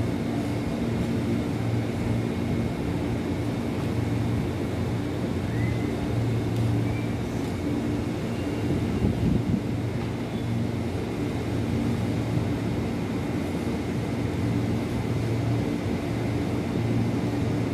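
Electric commuter train drawing slowly in along the platform track: a steady low hum and rumble.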